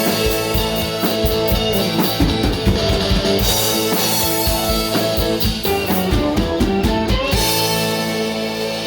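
Drum kit played along with a country song recording with guitar. The drum hits stop about seven seconds in and a held chord rings on.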